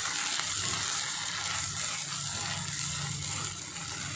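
Goat brain (bheja) pieces with onions and spices sizzling steadily in hot oil in a kadhai while being stirred with a spatula.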